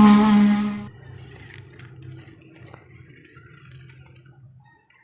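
A loud, drawn-out vocal sound, slightly falling in pitch, ends about a second in, followed by a quieter low hum with a few faint clicks that stops near the end.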